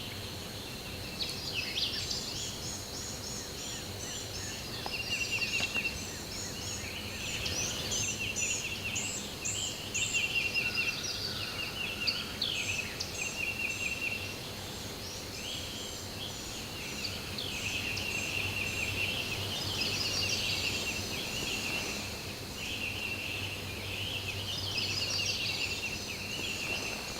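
Wild turkey gobblers gobbling at close range amid a spring morning chorus of songbirds chirping and trilling, the trills repeating every few seconds.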